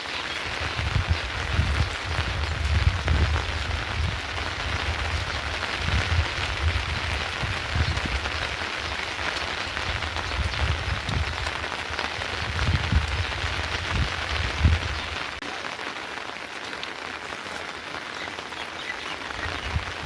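Steady rain falling, a continuous even hiss, with irregular low rumbles underneath that stop about three-quarters of the way through.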